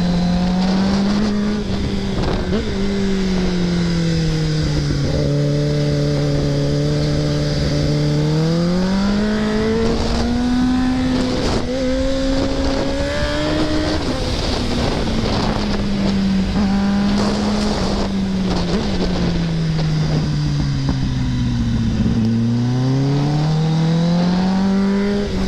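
Kawasaki ZX-10R inline-four sportbike engine running at speed through canyon corners, its pitch falling as the throttle is rolled off and climbing again as it is opened, over wind rush. The pitch drops over a few seconds, rises again before halfway, sags once more late on and climbs near the end.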